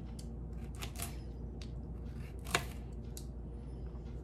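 Kitchen knife cutting a carrot on a cutting board: a handful of irregular, sharp taps, the loudest about two and a half seconds in, over a steady low hum.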